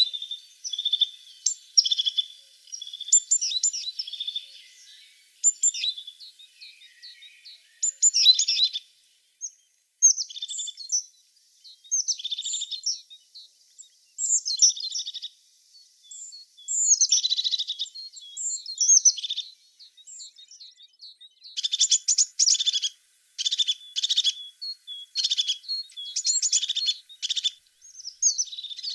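Tits singing and calling: a string of high chirping and trilling phrases with short pauses between them. About two-thirds of the way in comes a run of short, harsher notes.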